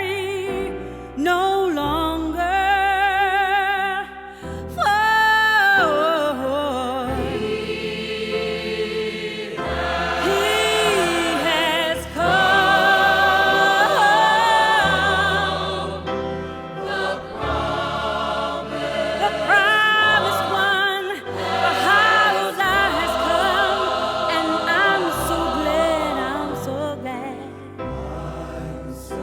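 Gospel choir singing with a solo voice over bass and instrumental backing, with strong vibrato on held notes.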